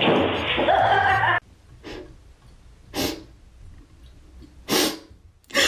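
Three short, sharp puffs of breath from a dog, roughly a second apart, heard after music and speech from the previous clip cut off about a second and a half in.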